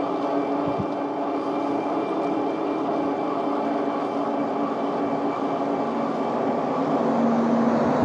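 Lectric e-bike's hub motor whining steadily under power while riding, with road and air noise beneath it. A lower tone grows louder near the end.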